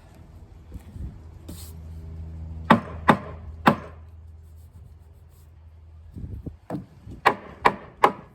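Plastic hammer tapping Cortex plugs into the screw holes of a Trex Enhance composite deck board: three sharp taps, a pause, then four more. A low steady hum runs underneath and stops about six seconds in.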